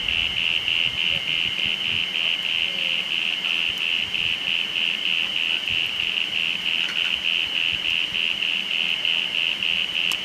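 A calling animal's loud, high-pitched pulsing trill, repeating evenly at about five pulses a second without a break.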